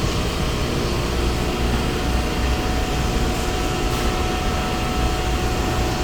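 Steady mechanical rumble and hum with a few constant tones, like running machinery or ventilation equipment.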